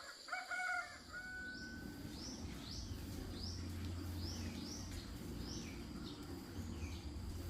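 A rooster crows once at the start, a pitched call lasting under two seconds. After it a small bird gives short rising chirps about twice a second over a steady low hum.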